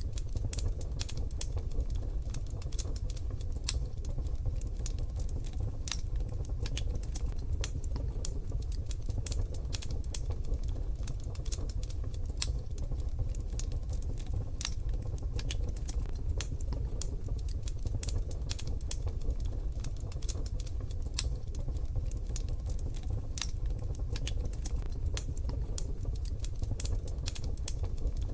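Wood fire crackling: a steady stream of irregular sharp pops and snaps over a low, steady rumble.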